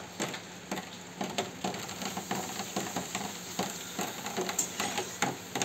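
Hot oil sizzling in a pan with irregular sharp crackles as papad (poppadoms) are deep-fried.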